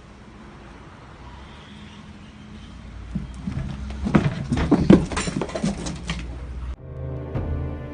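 A pet animal making a run of short, bending vocal sounds mixed with clicks, about three to six seconds in. Soft music starts near the end.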